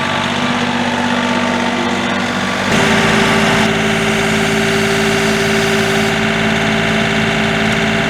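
John Deere 4105's three-cylinder Yanmar turbo diesel running steadily. Nearly three seconds in, the engine speed steps up, louder for a moment, and then holds at a higher pitch.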